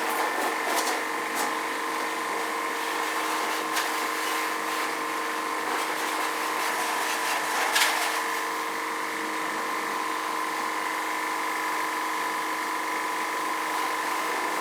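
Portable high-pressure water jet pump running with a steady motorised whine over the hiss of the spray, as it washes dust out of a split air conditioner. A few sharp clicks or knocks cut through, the loudest about eight seconds in.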